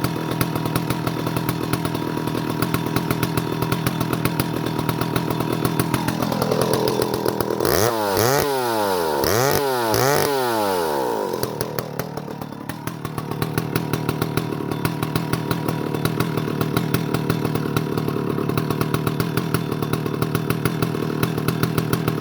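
Stihl 075 AVE chainsaw's big two-stroke engine running just after a cold start. It idles steadily, then about a third of the way in it is revved up in three quick blips, and it drops back to a steady idle.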